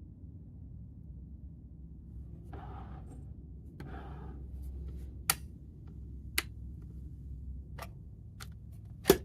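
Plastic-and-glass electric kettle being handled: five sharp clicks about a second apart, the last and loudest near the end, over a low steady hum.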